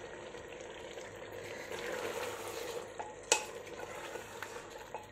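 Mutton masala and chopped tomatoes sizzling in an open pressure cooker while a wooden spoon stirs them, with a sharp knock of the spoon against the pot about three seconds in.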